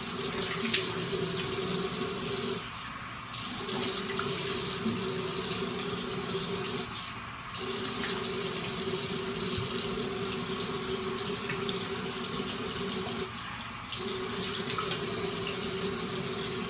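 Bathroom sink tap running steadily while a face is rinsed of cleansing gel, the flow sound breaking off briefly three times.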